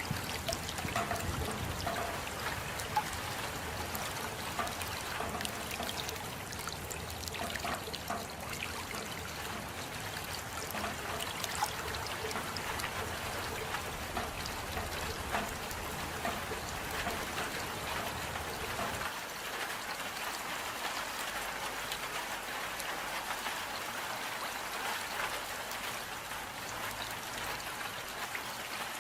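Steady rain with drops pattering and water trickling. A low rumble underneath drops out about two-thirds of the way through.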